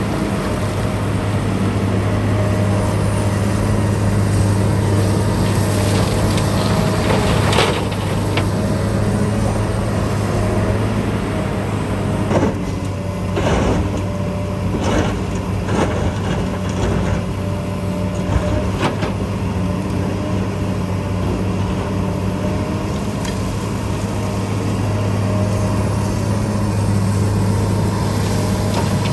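Diesel engine of a heavy construction machine running steadily at a constant low pitch, with a series of sharp knocks and clanks in the middle stretch.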